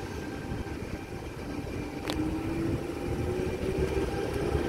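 V-set double-deck electric intercity train pulling into the platform, its rumble growing louder as it nears. A sharp click comes about two seconds in, followed by a slowly rising hum.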